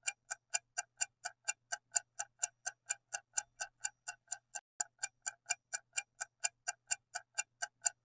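Clock-tick sound effect counting down the answer time, a steady run of crisp ticks at about four a second.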